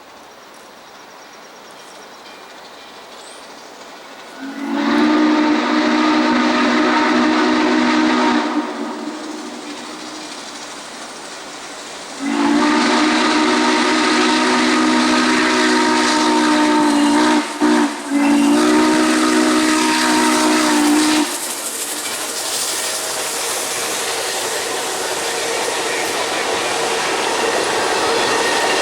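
Steam locomotive whistle, from Norfolk & Western 4-8-4 No. 611, blowing long, long, short, long: the grade-crossing signal. A rumble of the approaching train grows louder after the last blast.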